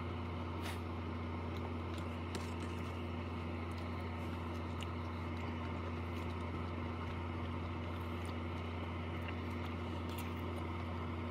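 A person chewing a mouthful of ham with faint, scattered mouth clicks, over a steady low hum.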